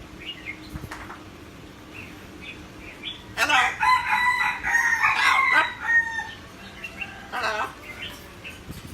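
A bird giving one long crowing call about three and a half seconds in, then a shorter call near the end.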